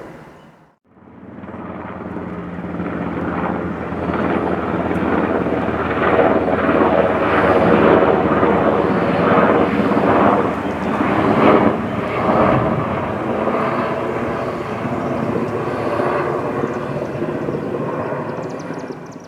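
Military fixed-wing aircraft flying past: the engine sound starts just after a second in, swells to its loudest about halfway through, then slowly fades away.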